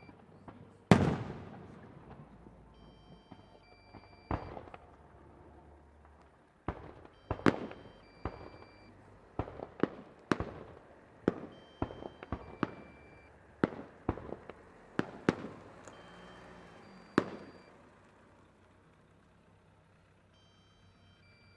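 Fireworks display: shells bursting in the air with sharp bangs that echo and rumble after each one. One bang comes about a second in and another about four seconds in, then a quick run of bangs follows until about seventeen seconds, after which the bangs stop.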